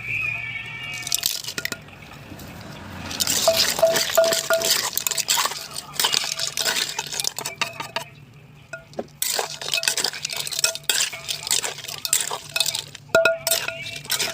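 Wet squelching and clinking of a pounded salad and utensils being handled, with many short clicks and knocks.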